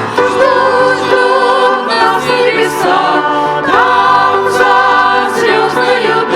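A group of singers performing a Christian song together, with the sung lines running on without a break.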